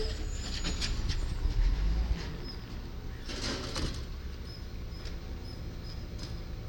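Garbage truck engine running with a steady low rumble, with a cluster of clicks and knocks in the first second, a heavy low thump about a second and a half in, and a short hissing, clattering burst about three and a half seconds in.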